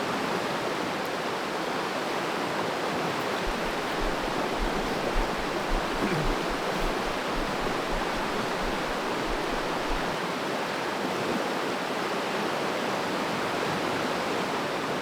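Fast river water rushing over rocks, a steady roar of running water. A few low bumps sound under it in the middle of the stretch.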